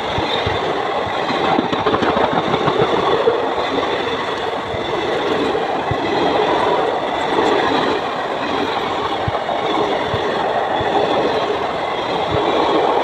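Indian Railways passenger train running past, its wheels clattering over the rail joints: a steady, loud rumble shot through with many irregular clicks.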